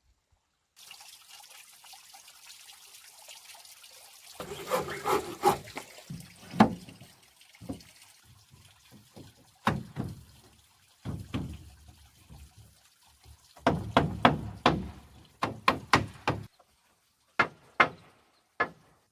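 Water splashing and pouring in irregular bursts over a faint steady hiss, with a few single sharp splashes near the end.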